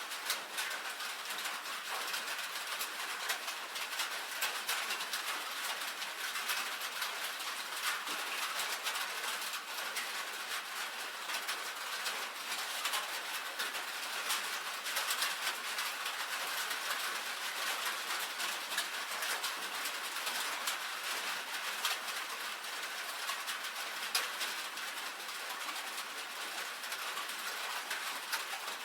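Rain on a tin roof: a dense, steady patter of countless small drop ticks on the metal sheeting.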